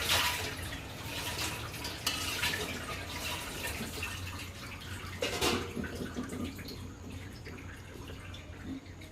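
Steamed chicken being lifted out of its cooking juices onto a plate: liquid sloshing and dripping, with a few knocks of utensils against the dishes, one right at the start and one about five and a half seconds in.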